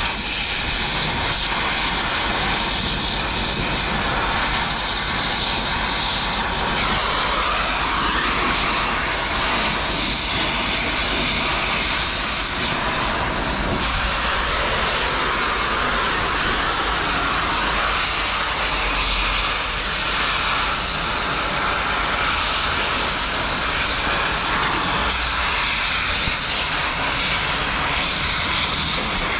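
Cutting torch running on steel scrap: a steady, loud hissing roar with no breaks.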